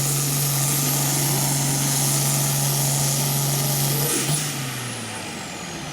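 Pulling tractor's diesel engine running hard at full throttle, then throttled back about four seconds in, the sound dropping while a high whistle slides down in pitch as the engine winds down.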